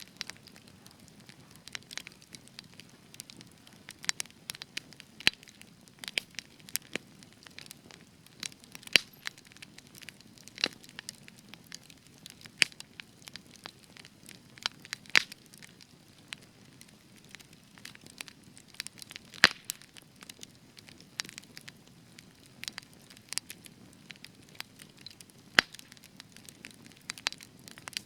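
Spruce-wood campfire crackling: a steady low hiss of burning under irregular sharp pops and snaps, several a second, with a handful of much louder pops now and then.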